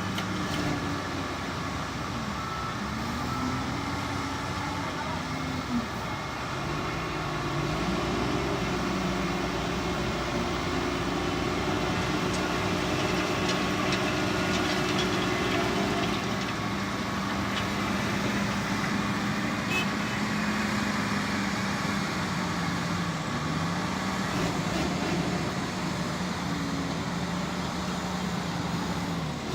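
Heavy diesel engines running steadily, their pitch rising and falling a little now and then.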